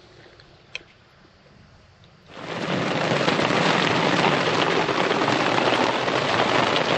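Heavy rain pouring down in a thunderstorm, starting suddenly a little over two seconds in after a quiet stretch broken by a single click.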